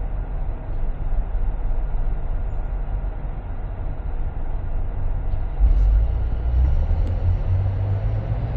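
Car driving on city streets, heard from the car: a steady low rumble of engine and road noise, with the engine note rising about halfway through as the car speeds up.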